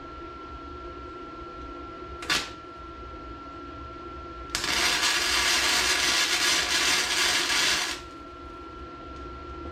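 Welder laying a tack weld to hold a mini bike's motor in place: a brief burst about two seconds in, then about three and a half seconds of steady welding noise that stops abruptly.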